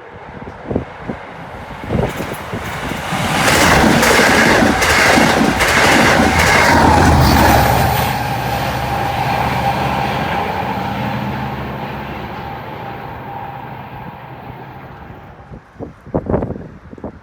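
A Long Island Rail Road commuter train passing, with wheels clacking over rail joints and a steady whine. It builds over a couple of seconds, is loudest about four to eight seconds in, then fades away. A few sharp knocks come near the end.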